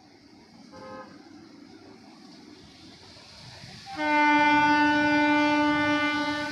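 Electric goods locomotive's horn: a faint short toot about a second in, then a long, loud, steady blast starting about four seconds in.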